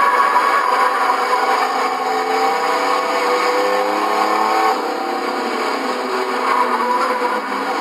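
Several race-truck engines running hard around the track, their pitches rising and falling as the trucks pass, most clearly in the middle.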